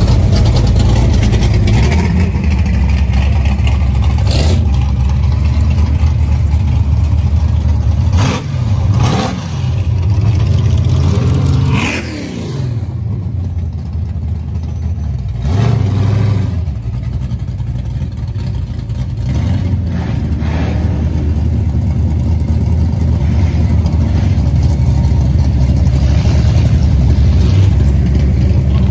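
Engines of classic cars running as they cruise slowly past, with a few revs.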